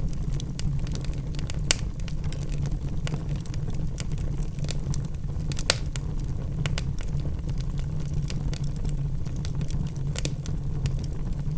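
Logs burning in a fireplace: a steady low rumble of flames with irregular sharp crackles and pops, two louder pops at about two and six seconds in.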